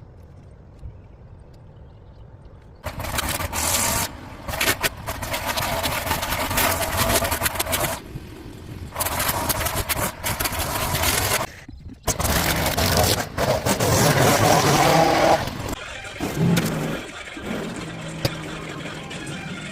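Lawn mower running while cutting grass: quiet for the first few seconds, then loud for long stretches broken by brief drops, settling into a steadier, lower hum near the end.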